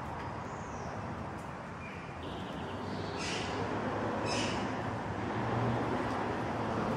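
Outdoor background noise with a steady low rumble, and two short, harsh bird calls about three and four and a half seconds in.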